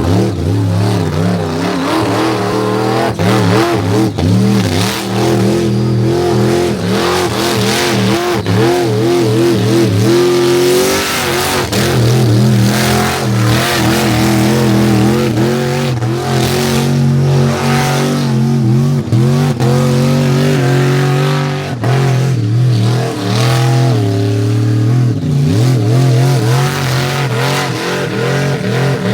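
Toyota KE20 Corolla burnout car doing a test burnout: the engine is held at high revs that rise and fall, with the rear tyres spinning and squealing.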